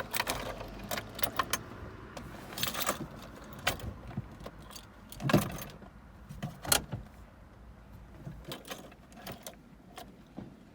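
Keys jangling amid a run of sharp clicks and knocks, the loudest about five and a half and seven seconds in, while the car engine's low hum dies away in the first second or two.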